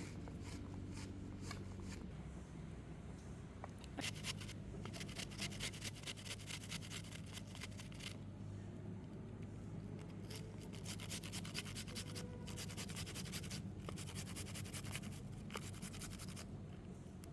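Bursts of rapid scraping or chopping strokes, each run lasting a few seconds, with a steady low hum underneath.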